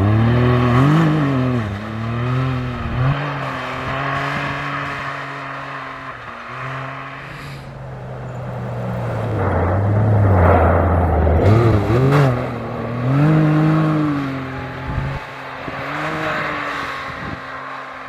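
Rally-raid competition vehicle's engine revving hard at racing speed, its pitch climbing and dropping several times with gear changes, loudest as it passes about halfway through.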